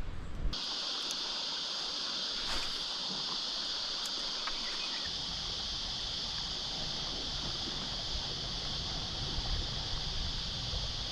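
Cicadas shrilling in a steady, unbroken high-pitched drone that starts abruptly about half a second in and holds at one level.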